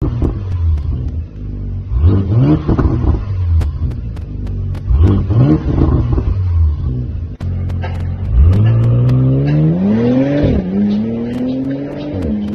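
Porsche 971 Panamera 2.9T engine through an AVT aftermarket exhaust, idling with two quick throttle blips that rise and fall. Then a long climb in revs drops suddenly about ten and a half seconds in and climbs again, like a hard pull through an upshift. Sharp pops are scattered throughout.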